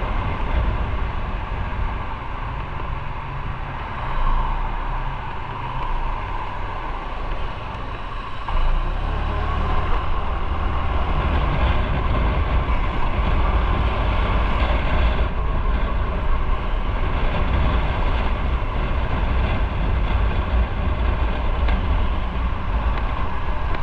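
Motorcycle on the move: engine and road noise running steadily, the low rumble growing louder about eight and a half seconds in.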